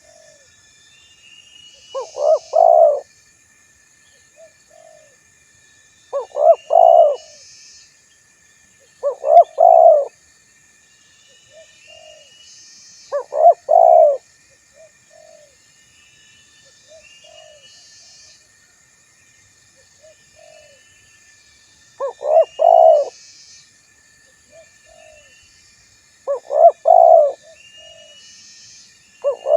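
Male spotted dove (tekukur) cooing: a short phrase of quick stuttering coos repeated every few seconds, with soft single coo notes between the phrases. This is the calling-a-rival song used as a lure to make other doves answer.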